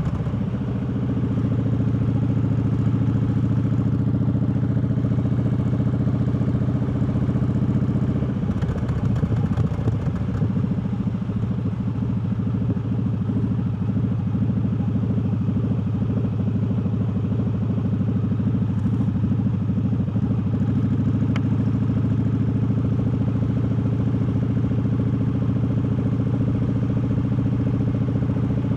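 Triumph Bobber's 1200 cc parallel-twin engine running under way, heard from the rider's seat. It holds a steady note, wavers between about eight and twenty seconds in as the revs change, then settles again.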